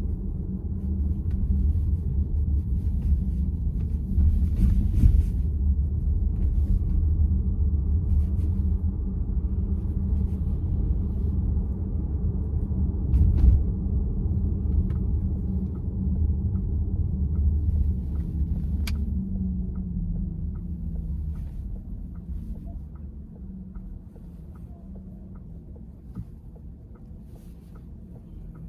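Low road rumble inside a VW ID.4's cabin, with a thump about 13 seconds in. About 19 seconds in the steering wheel gives a single sharp, loud clack as it is turned slowly to the right: the intermittent steering-wheel clunk the owner is reporting as a fault. A regular light ticking runs through the second half, and the rumble eases off as the car slows.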